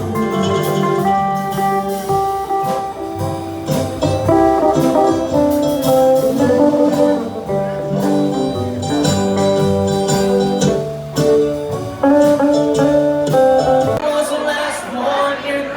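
Live band playing an instrumental passage led by guitar, over a bass line. About two seconds before the end the bass drops out and crowd noise rises.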